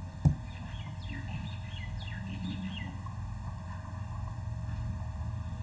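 A single sharp click just after the start, then about two seconds of quick, falling chirps like small birds calling, over a steady low hum.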